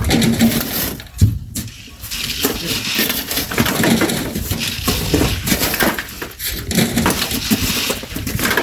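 Shovels digging into and throwing sand and gravel by hand: an uneven run of gritty scrapes and strikes.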